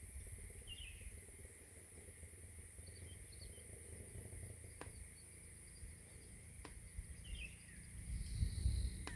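Quiet outdoor ambience: a steady high-pitched insect drone, with short bird chirps three or four times and a low rumble underneath. Two faint clicks come near the middle.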